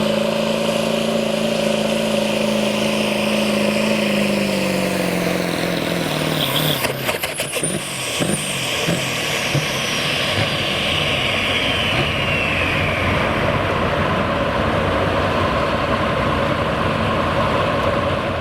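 Ford pickup truck engine running at high, steady revs under load on a pull. About five seconds in, its pitch falls as the throttle is backed off, and a few sharp clicks follow. A high whine then slides slowly down in pitch for several seconds while the engine settles to a lower, steady run.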